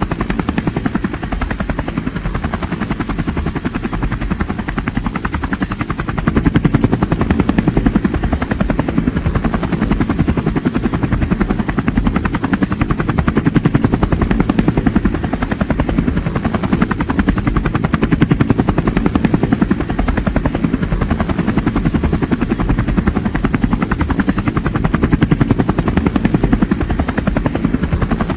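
Helicopter flying over, its rotor beating in a fast, steady chop that gets a little louder about six seconds in.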